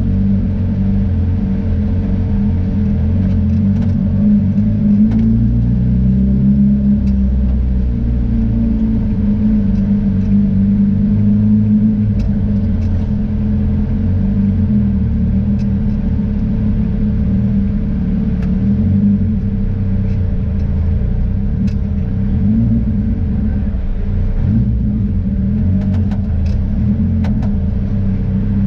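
Car engine and road rumble heard from inside the cabin while driving, the engine note rising and falling with speed changes, over a steady whine.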